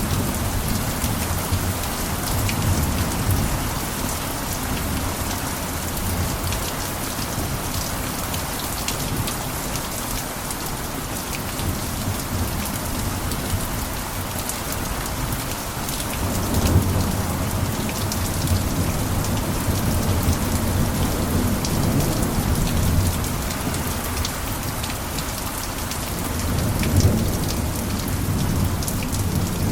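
Steady heavy rain pattering on a roof, a dense hiss of countless drops, with a low rumble that swells and fades a few times.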